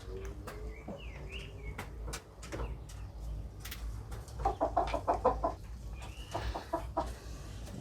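A hen clucking: a rapid run of clucks in the middle and a shorter run near the end, with a few small bird chirps about a second in.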